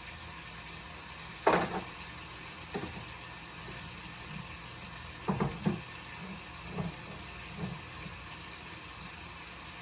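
Meat browning in a frying pan, sizzling with a steady hiss, broken by a few brief louder sounds, the biggest about a second and a half in and again about five seconds in.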